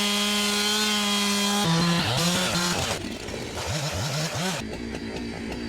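Two-stroke chainsaw cutting pond ice, held at a steady high speed. About one and a half seconds in it drops off and revs up and down several times, then runs quieter for the last second.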